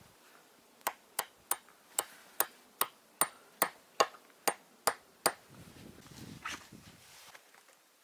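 Hammering on metal: about a dozen sharp strikes, a little over two a second, several with a short ringing ping. A soft rustle follows.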